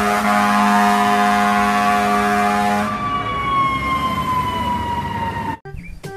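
Fire truck's horn sounding steadily for about three seconds together with its wailing siren. The horn then stops and the siren alone falls slowly in pitch until it cuts off abruptly near the end.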